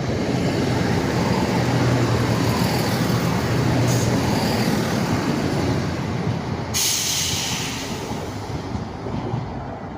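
Class 170 Turbostar diesel multiple unit passing through the station at speed: its diesel engines and wheels on the rails are loud and steady, with a short burst of hiss about seven seconds in, then the sound fades as it moves away.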